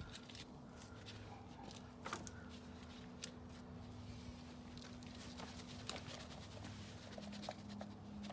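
Soil being spread by hand around the base of a tree: faint, irregular scrapes and taps over a steady low hum.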